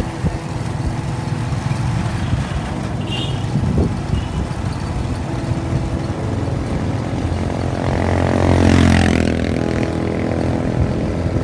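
Road traffic: a steady low engine rumble, with a vehicle passing close about eight seconds in, its pitch falling as it goes by.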